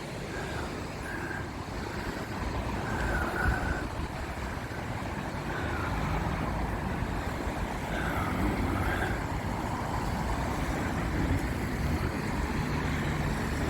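Road traffic on a seafront road: a steady rumble of passing cars that grows a little louder toward the end.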